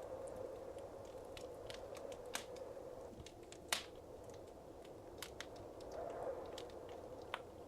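Wood fire crackling in a fireplace: scattered sharp pops and snaps, one louder pop about four seconds in, over a soft steady hiss of burning.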